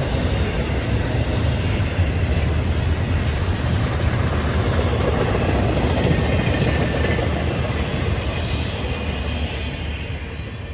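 Norfolk Southern freight train's cars rolling past, steel wheels rumbling on the rails, fading over the last few seconds.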